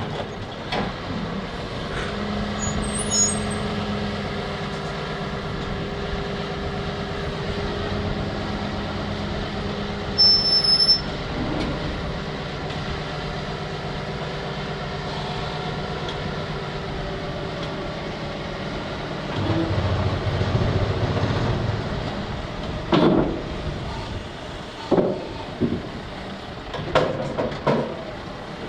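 Heavy diesel engine running steadily, with a brief high beep about ten seconds in and several sharp metallic clanks in the last few seconds.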